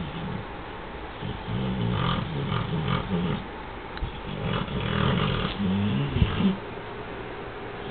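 Beagle snoring in its sleep: about three low, rasping snores, one every two to three seconds.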